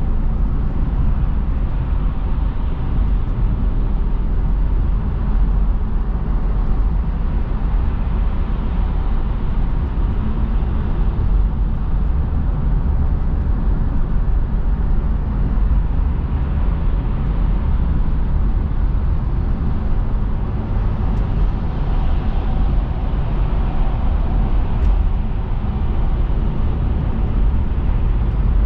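Steady car road and engine noise heard while driving, a constant low rumble with no breaks.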